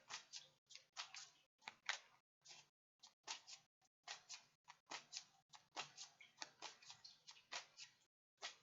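A tarot deck being shuffled by hand to draw a clarifying card: a faint, quick run of soft card slaps and flicks, two to four a second, with short pauses between.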